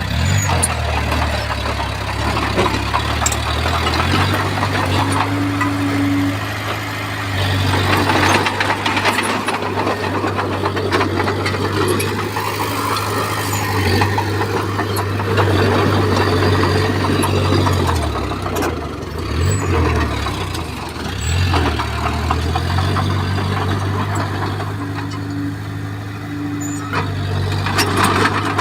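Crawler bulldozer's diesel engine running under load, a steady low drone with scattered clanks and scraping as it pushes soil and stone. The engine note sags and recovers twice about two-thirds of the way through.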